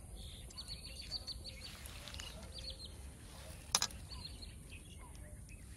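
Birds chirping in runs of short, high notes, with a single sharp click a little past halfway.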